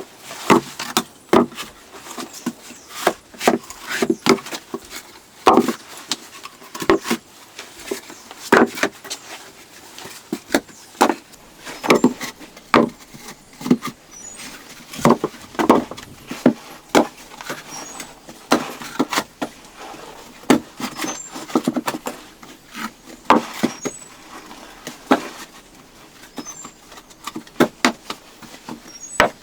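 Irregular knocks and clunks of wood and stone being handled and struck during hand building work, coming every half second to a couple of seconds.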